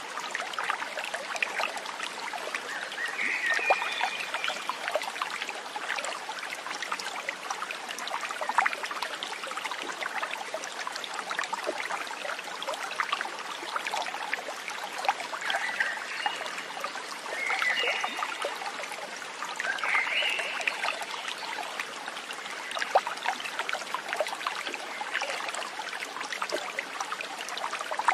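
Small stream trickling and splashing steadily over stones. A few short chirping animal calls join in, once about three seconds in and several times past the middle.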